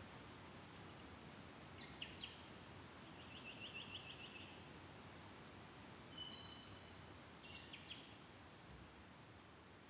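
Faint outdoor ambience with scattered wild birdsong: a couple of sharp chirps, then a quick trill of about eight notes, then more high calls later on over a steady low hiss.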